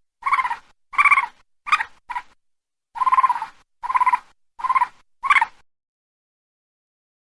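A series of about eight short, rough-toned animal calls at an uneven pace, stopping a little over halfway through.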